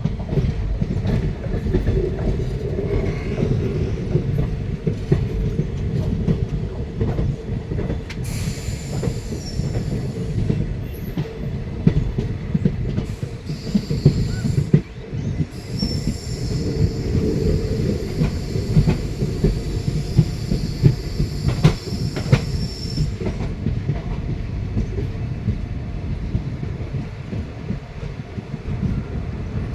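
Train running on the rails: a steady rumble with clattering wheels over the track, and high metallic wheel squeal that comes in about a third of the way through and again for several seconds in the middle.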